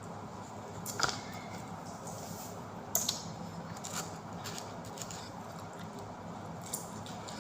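Close-up eating sounds of a person eating pizza: a few short, crisp clicks and crunches of biting and chewing, about a second in, around three and four seconds, and near the end, over a steady low hum.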